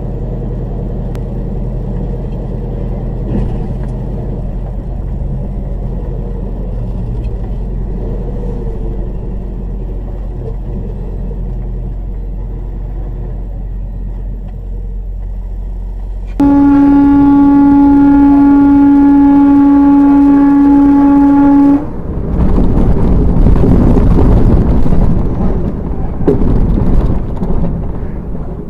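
Steady vehicle drone, with a vehicle horn sounding at one steady pitch for about five seconds past the middle and cutting off suddenly. Several seconds of loud, ragged noise follow.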